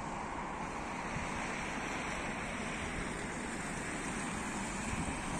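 Steady noise of a departing passenger train rolling away on the rails, heard from a distance, mixed with wind on the microphone.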